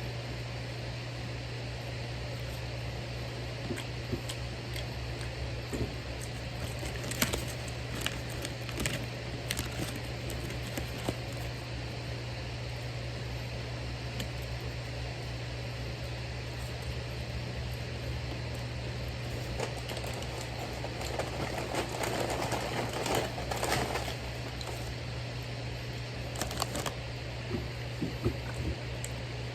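A steady low hum like a fan or air conditioner, with scattered small clicks and a stretch of rustling about two-thirds of the way through.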